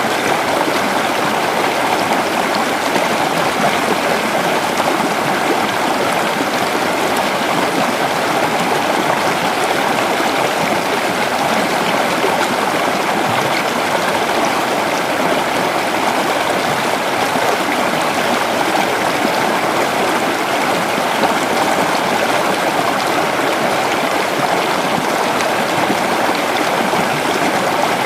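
Creek water running over rocks: a steady, even rushing and babbling.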